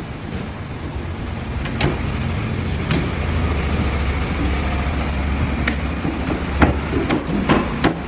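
Scattered sharp knocks and taps over a steady low rumble. The knocks come about seven times, more often near the end.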